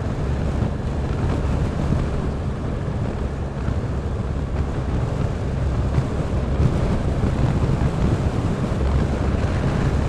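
Motorcycle riding at steady speed: wind rushing over the microphone, with the engine's steady low drone underneath.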